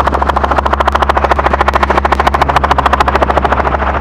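Helicopter rotor blades beating in a rapid, even rhythm over a steady engine drone, heard from on board the aircraft.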